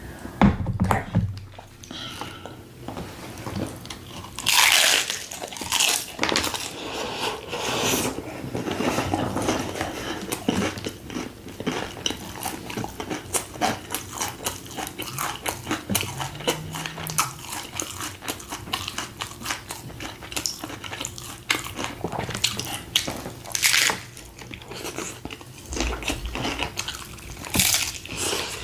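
Someone chewing and biting into a crunchy taco, with many sharp crunches and crackles and a few louder bites.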